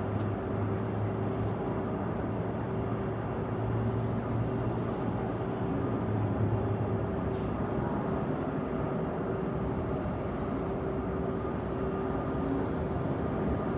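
Jet airliner engines running as a steady rumble, with a low hum that fades out about seven seconds in.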